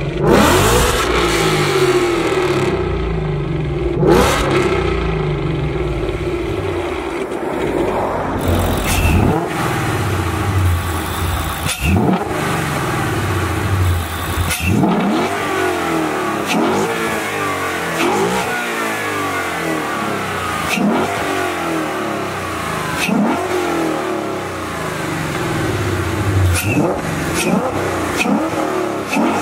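Ford Mustang GT's 5.0 L Coyote V8, running through long-tube headers and a Corsa Extreme cat-back exhaust, idling and being revved: a couple of revs in the first few seconds, then short rev blips about every two seconds.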